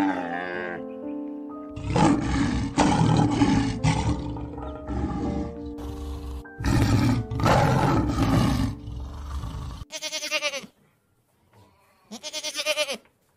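Background music with animal calls laid over it. Tigers roar in two long stretches. Near the end a domestic goat bleats twice, each bleat wavering in pitch.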